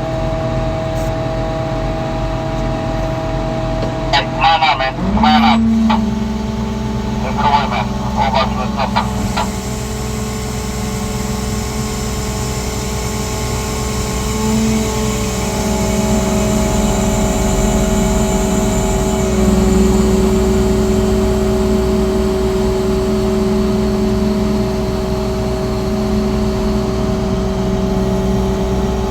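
A 200-ton lattice boom crane's engine running steadily, its note rising and settling higher about five seconds in as it takes throttle. Short honk-like squawks sound a few times between about four and nine seconds in.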